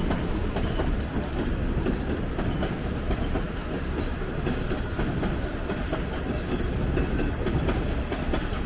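A TTC Line 2 subway train passing along the tracks, a steady rumble that holds without a break.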